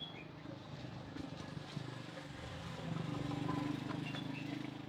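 An engine running steadily, with a low even hum that grows louder about three seconds in.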